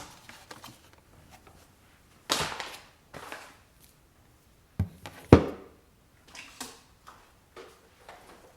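Items being handled while emptying a refrigerator for cleaning: a series of separate knocks and thuds as things are picked up and set down, with a longer clatter about two seconds in and the loudest thump about five seconds in.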